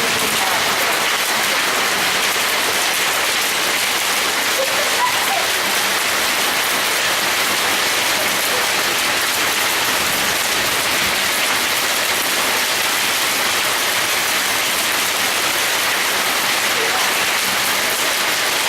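Hail falling with heavy rain: a dense, steady clatter of hailstones and raindrops that does not let up.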